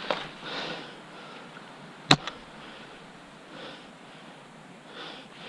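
A single sharp shot from a spring-piston AS01 airsoft sniper rifle about two seconds in, set among soft, breathy puffs of noise.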